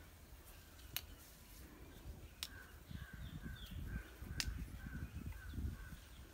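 A bird calling in a series of short, even notes, about two a second, through the second half. There are also a few sharp clicks and low rustling close by.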